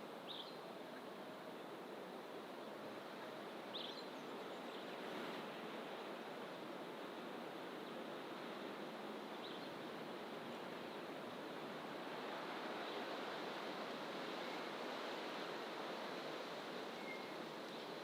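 Steady hiss of distant ocean surf, with a few brief high bird chirps scattered through it.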